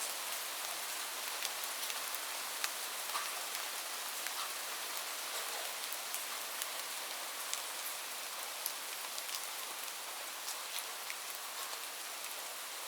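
Steady rain falling, a dense high hiss with scattered louder drops ticking on a surface.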